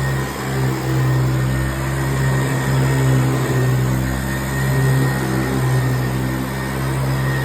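A 1978 Hoover Convertible Elite upright vacuum running with a steady, loud hum, its brush roll making a rough, chainsaw-like sound. The owner suspects the brush-roll bearings are dried out or worn and the brush roll needs replacing.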